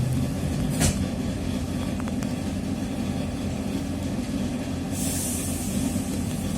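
TrolZa-5275.05 Optima trolleybus running, heard from inside: a steady low drone from its drive train. A sharp knock comes about a second in, and a hiss starts about five seconds in and runs almost to the end.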